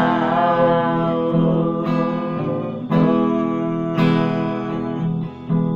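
Acoustic guitar strumming chords between sung lines, changing chord every second or so. The last held, wavering sung note fades out just at the start.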